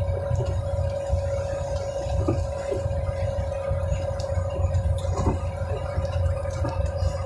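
Road and engine noise inside a moving car's cabin: a steady low rumble with a thin, constant whine over it.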